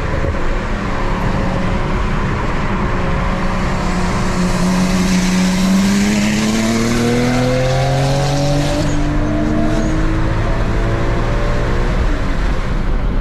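Car engine pulling hard under acceleration, its pitch rising slowly over several seconds, over steady road and wind noise.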